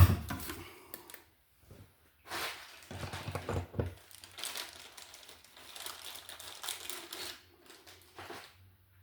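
Insulated copper house wires being handled and twisted together in an electrical box: irregular scraping and crinkling that stops shortly before the end.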